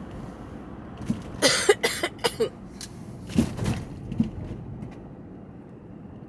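A woman coughing in a fit of several harsh coughs, then a few more: the cough of her bronchitis.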